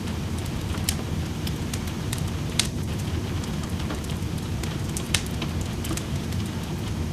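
Wood fire in a fireplace crackling, with irregular sharp pops (two louder ones, near the middle and about two-thirds of the way in), over a steady hiss of rain.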